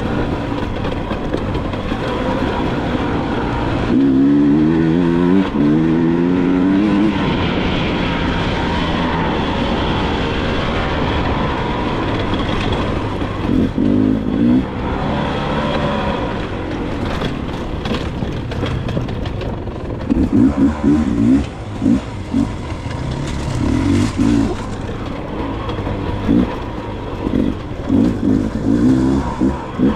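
Dirt bike engine running under throttle, rising in pitch several times in quick succession about four to seven seconds in as it revs up through the gears, then short bursts of throttle later on, with scattered knocks in the middle.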